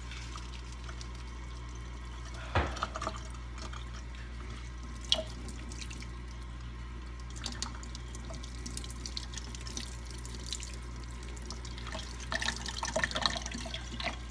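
Kitchen tap running steadily into a sink, with water splashing as a small child plays with the dishes. A sharp knock comes about two and a half seconds in, another at about five seconds, and a run of light clinking and clattering near the end.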